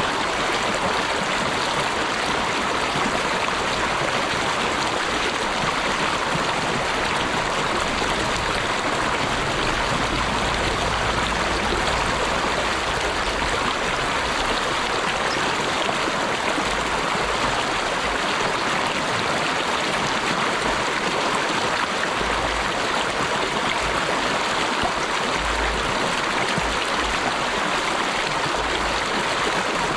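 Steady, unbroken rush of running water, like a stream flowing over rocks.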